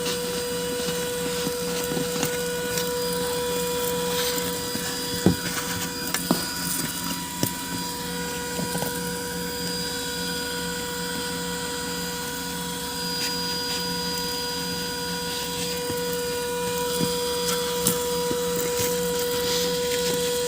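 Handheld car vacuum cleaner running with a steady motor whine, its nozzle working over the seats. A few sharp knocks between about five and seven seconds in.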